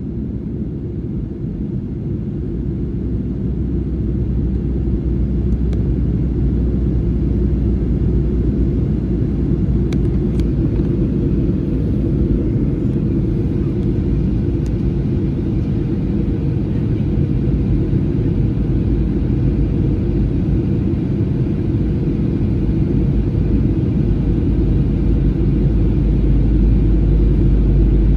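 Jet airliner in flight after a go-around in strong wind: a steady low rumble of engine and airflow noise that slowly swells louder.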